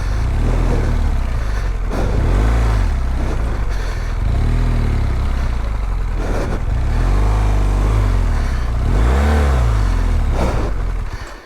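BMW R1200GS boxer-twin engine revved up and down again and again, about six rises and falls in pitch over a steady low rumble. The bike is bogged down in deep mud and being powered to get it moving.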